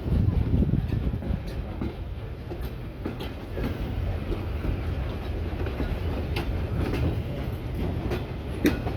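Steam-hauled train running along the track: a steady low rumble with occasional sharp clicks from the wheels.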